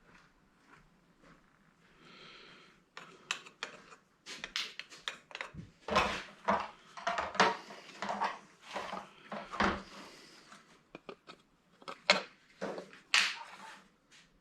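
Irregular metallic clinks and knocks of parts and hand tools being handled while an old electric angle grinder is dismantled for scrap. They start about three seconds in and come thickest through the middle.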